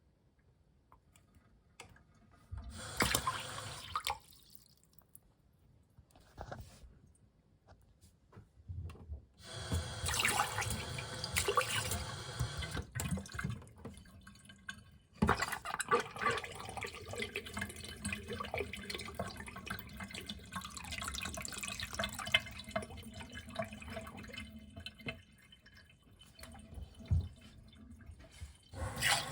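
Water running and splashing in a miniature toilet and tank, in bursts: a short one about three seconds in, a longer one around ten seconds in, and a long stretch from about fifteen seconds in to near the end.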